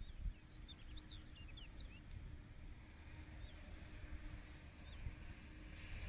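Small birds chirping: a quick run of short, high chirps in the first two seconds, then two single chirps later, over a steady low rumble.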